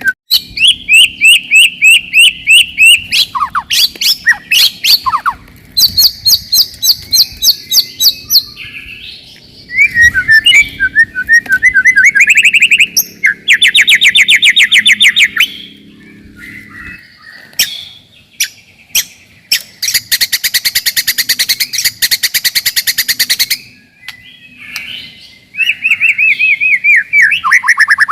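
White-rumped shama song: loud, rapid phrases of repeated whistled notes, fast trills and harsh chattering, with brief pauses between phrases. A dense high rattle runs for about three seconds in the second half.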